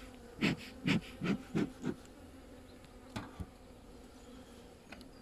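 Honeybees humming around an open hive, a steady drone. In the first two seconds there is a run of about six short breathy puffs, two or three a second, and two light knocks come a little after three seconds in.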